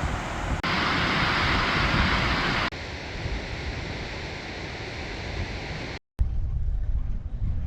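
Wind rushing over the microphone with rolling noise from a bicycle ride, in short clips joined together: the rush changes abruptly about half a second in and again near three seconds, and cuts out briefly at about six seconds.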